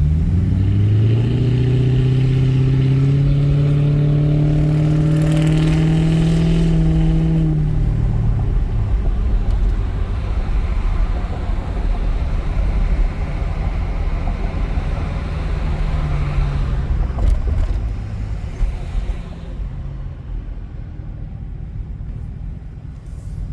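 1996 Mercury Grand Marquis's 4.6-litre V8 through a straight-piped single exhaust with no resonator and the rear catalytic converter deleted, accelerating with a steadily rising drone for about eight seconds. The pitch then drops, rises briefly again, and the sound gets quieter over the last few seconds.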